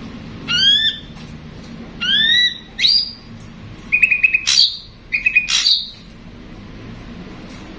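Ashy drongo calling: three upward-slurred whistles in the first three seconds, then two quick rattling phrases, each ending in a harsh, sharp note.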